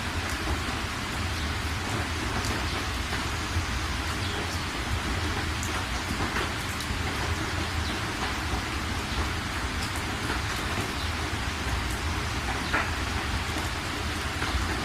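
Steady rain falling on surfaces, with scattered drops ticking and a continuous low rumble underneath.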